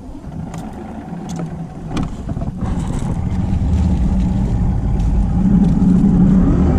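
Bass boat's outboard motor running under throttle, growing steadily louder as it strains to push the hull off a log it is stuck on. A few light knocks come in the first two seconds.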